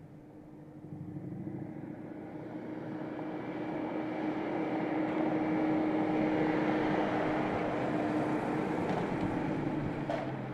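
BMW X6 driving, its engine and road noise growing louder over the first six seconds and then holding steady, with a steady low hum underneath.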